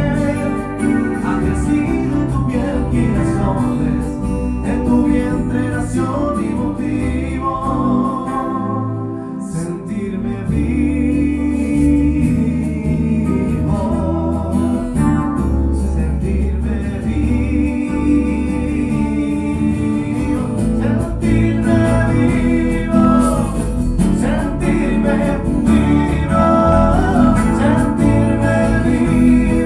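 A band playing a song at a sound check, with singing over guitar and bass.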